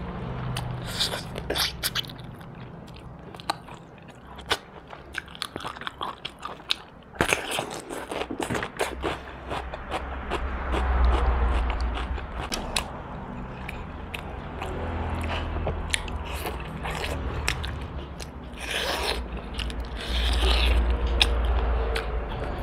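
Close-miked eating of roast duck: biting and chewing, with many irregular crunches and clicks. A low rumble swells under it a couple of times.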